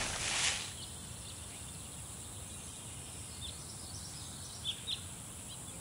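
Faint outdoor ambience: a steady low hiss with a few short bird chirps, two slightly louder ones near the end. A brief burst of noise fades away at the very start.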